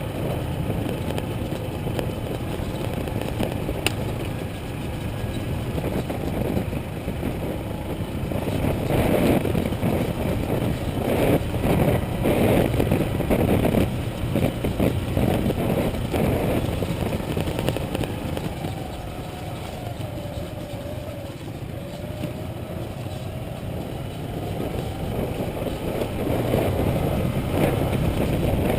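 Motorcycle engine running while being ridden, with wind and road noise; the engine note falls and then rises again in the last third.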